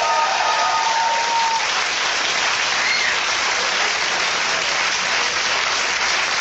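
Studio audience applauding steadily, with a few high pitched cries over it in the first second and a half.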